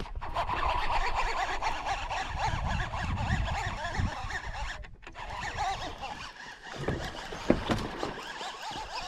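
Many overlapping squealing bird calls, a flock of birds chattering without a break, over a low rumble on the microphone.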